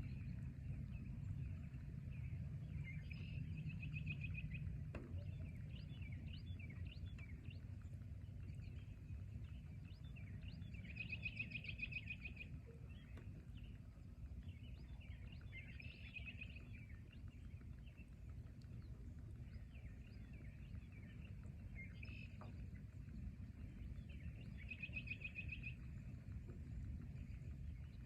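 Forest birds calling, one bird repeating a rapid high trill several times with other chirps in between, over a low steady rumble.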